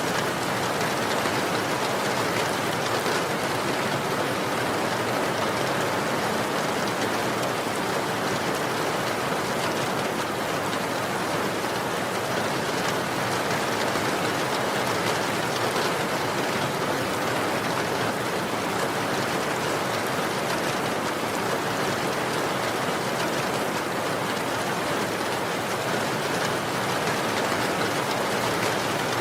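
Steady rain falling, an even hiss of many drops without a break or change.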